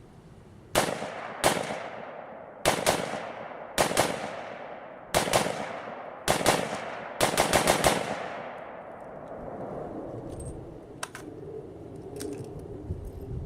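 A 300 AAC Blackout AR-15 short-barreled rifle firing a string of about fifteen shots, mostly in quick pairs, ending in a fast run of about six shots. Each shot rings out with a trailing echo.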